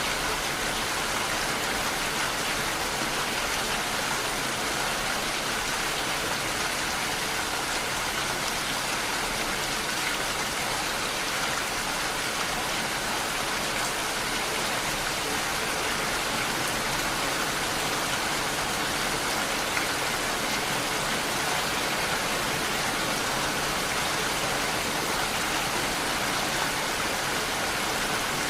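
Steady rain falling, a constant even hiss with no separate drops or claps standing out.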